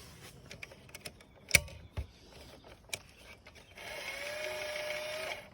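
A few sharp clicks and knocks, then a small motor whines steadily for about a second and a half near the end before cutting off.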